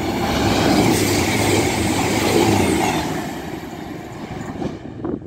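Express passenger train passing through the station at speed without stopping: a rushing, rumbling noise that swells to a peak over the first second or so, holds for about two seconds, then fades as it runs away, and cuts off abruptly near the end.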